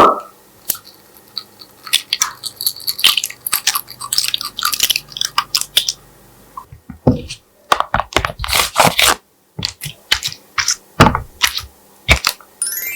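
Slime being squeezed and mixed by hand, giving off irregular runs of sticky crackling and popping clicks, with a sharp knock at the start and a few heavier squelches near the end.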